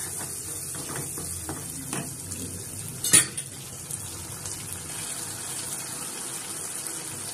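Onion-tomato masala sizzling steadily in a non-stick kadai as it is fried until the oil separates, with soft scraping strokes of a wooden spatula stirring it in the first couple of seconds. One sharp clack about three seconds in as the spatula is set down against the pan.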